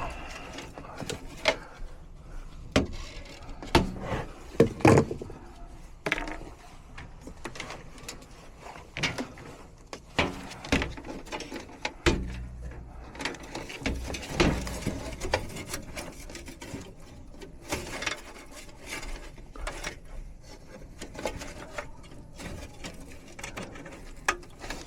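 Irregular clicks, knocks and rubbing of hands and a tool working at a gas furnace's flame sensor mount, with a few sharper knocks in the first five seconds. The furnace is being checked because its flame goes out, which the tech takes for a flame sensor issue.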